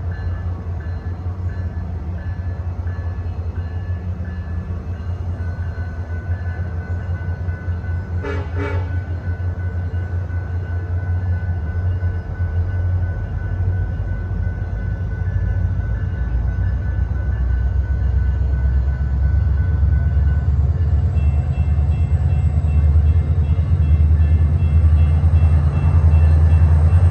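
A train rumbling steadily and growing gradually louder, with one short horn toot about eight seconds in.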